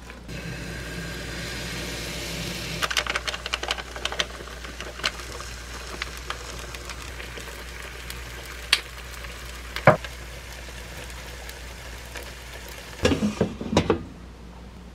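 Food sizzling as it fries, with metal utensils clicking against the cookware and a cluster of louder knocks near the end.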